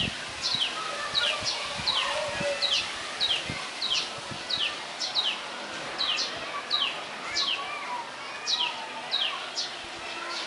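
A bird calling over and over, a short high note that falls in pitch, about twice a second, with other faint bird sounds behind it.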